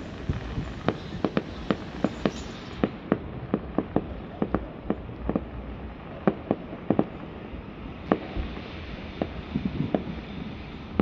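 Fireworks bursting in an irregular string of sharp bangs, two or three a second.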